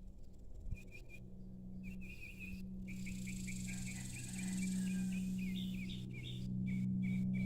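Small birds twittering in quick runs of short chirps, over a low steady hum that swells louder twice.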